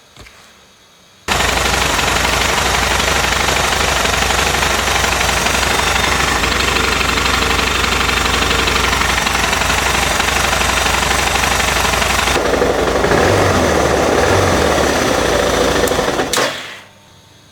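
Suzuki DR650's single-cylinder four-stroke engine idling on its first run after an oil change, circulating oil into the empty filter and oil cooler. It cuts in suddenly about a second in, changes character a little after twelve seconds, and dies away near the end.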